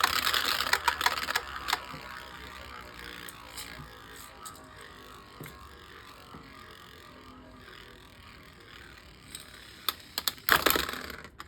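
Two small Beyblade Micros spinning tops in a plastic mini stadium. They rattle and clash for the first couple of seconds, then settle into a faint steady whir as they spin down, with a few sharp clatters near the end. The battle is ending in a stamina finish, with one top outspinning the other.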